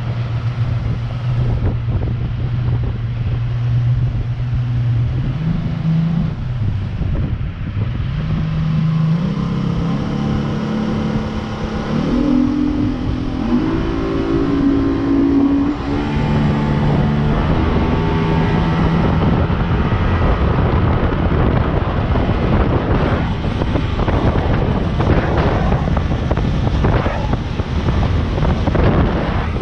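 Jet boat engine running. Its pitch steps up to higher revs about twelve seconds in and drops back a few seconds later. In the later part, a rough, gusty rushing noise grows over the engine.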